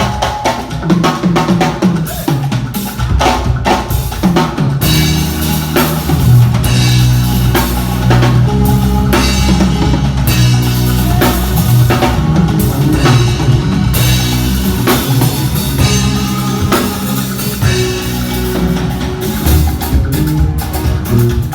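A drum kit played live, with kick, snare and rimshot strokes, during a band sound check. About five seconds in, a bass line in held, stepping low notes joins the drums.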